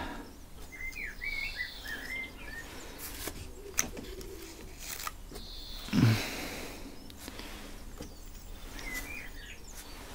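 A small bird chirping in quick up-and-down phrases, a run of them about a second in and another near the end, over a low steady hum. A brief louder noise comes about six seconds in.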